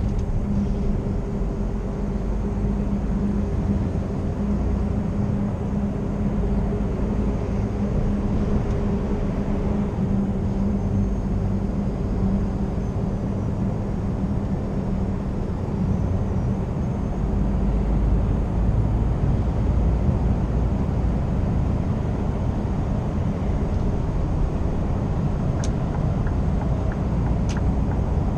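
Scania R490 truck's 13-litre six-cylinder diesel running steadily under way, a constant low drone over road noise. A couple of faint clicks come near the end.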